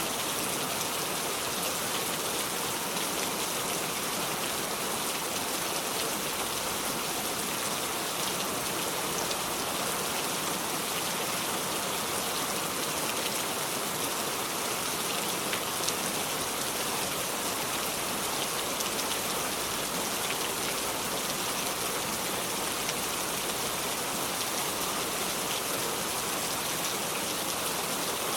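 Steady heavy rain falling, an even hiss with scattered drop ticks and no thunder.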